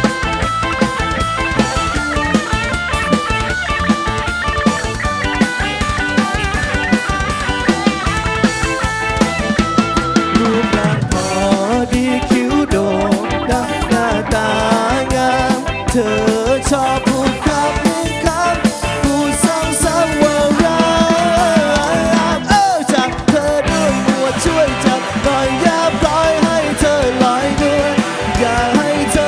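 A rock band playing, drum kit and guitar, with a melody line that bends in pitch over them.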